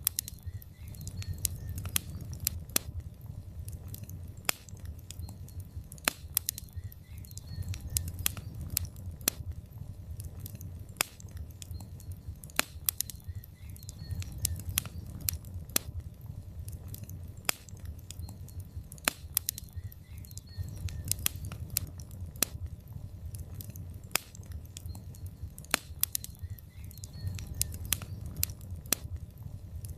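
Logs burning in a fireplace, crackling with frequent irregular sharp pops over a low steady rumble of the flames.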